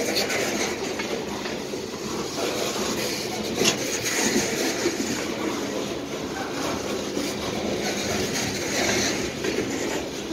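Coal hopper cars of a freight train rolling past, steel wheels running and clicking over the rails with a steady rumble. A sharper clank comes a little under four seconds in.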